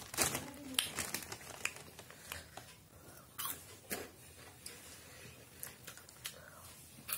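Someone chewing crunchy puffed corn snacks, giving a string of irregular short crunches and mouth clicks.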